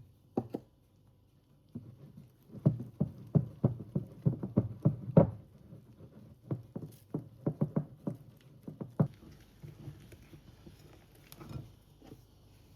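A quick, irregular run of soft knocks and taps of kitchen work, about three to five a second, starting about two seconds in and thinning out after about nine seconds.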